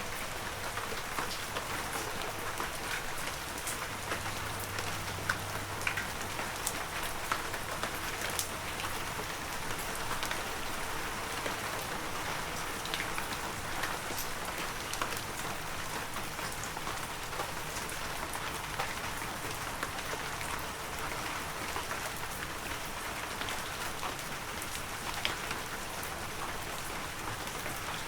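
Heavy rain falling steadily, an even hiss of rain with scattered louder single drop hits.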